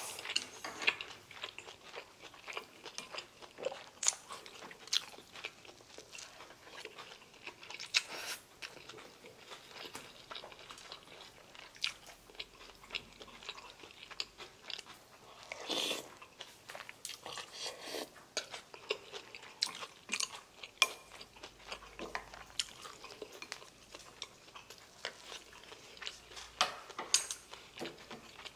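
Close-miked chewing and biting of food, with frequent short crunches and clicks, and chopsticks clicking against dishes.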